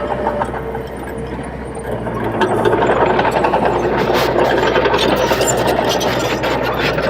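Bulldozer diesel engine running under load. It grows louder about two seconds in, with rattling and clanking over the drone.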